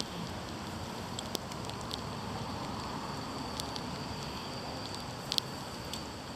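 Steady hiss of falling rain, with a few scattered sharp ticks of drops striking close by.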